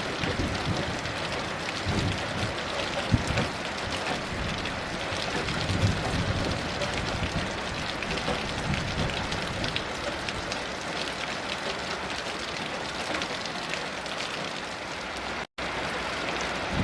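Heavy rain falling steadily, a dense patter of drops hitting a surface, with low rumbles of distant thunder swelling now and then. The sound cuts out for a split second about a second before the end.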